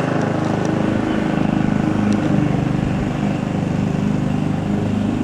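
Lawn mower engine running, a steady drone that wavers a little in pitch around the middle, drowning out the engine of a light aircraft passing over.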